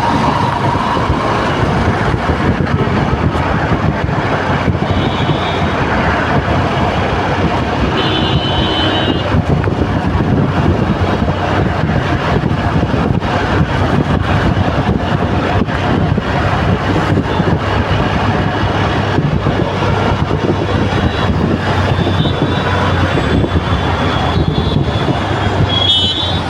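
Heavy road traffic in a jam: a steady din of many vehicle engines and tyres, with horns honking briefly a few times, about five and eight seconds in and again near the end.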